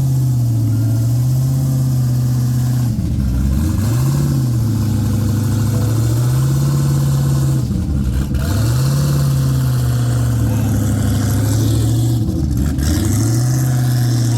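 A car engine held at high revs with a steady drone, dipping briefly in pitch and swinging back up three times as the throttle is let off and reapplied.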